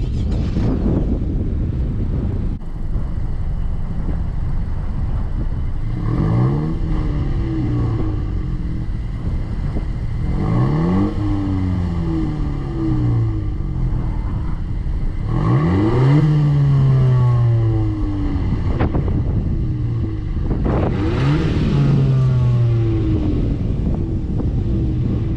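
Stock exhaust of a 10th-gen Honda Civic Si's 1.5-litre turbo four-cylinder, heard from outside the moving car under acceleration. The revs climb and fall back four times as it pulls through the gears, over a steady low drone from the engine and road. It is a mild, quiet stock tone.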